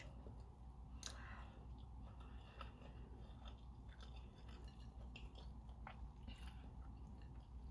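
A person chewing a mouthful of rice and lamb rendang close to the microphone: faint, soft mouth sounds with scattered small wet clicks.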